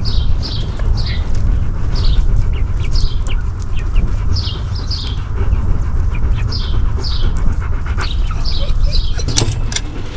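Newly hatched chicks peeping: short, high, downward-sliding peeps, mostly in pairs, repeated every half second or so, over a steady low rumble. A few sharp clicks near the end.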